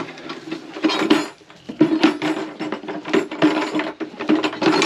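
Goats jostling at a metal feeder, with rapid, repeated clanking and clattering of metal.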